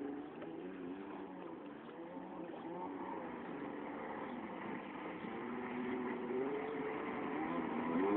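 Jet ski engine running, its pitch rising and falling as the throttle changes, getting louder in the second half.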